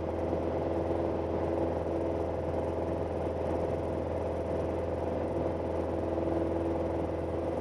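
Steady drone of a Piper PA-28-180's four-cylinder Lycoming O-360 engine and propeller in cruise flight, holding an even pitch throughout.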